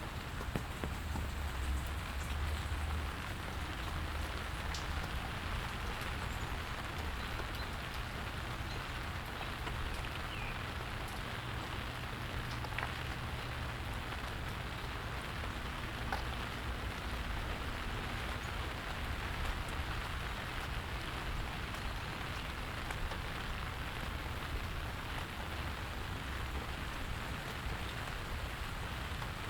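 Steady rain falling and pattering on surfaces, with scattered individual drop ticks and a low rumble underneath that is strongest in the first few seconds.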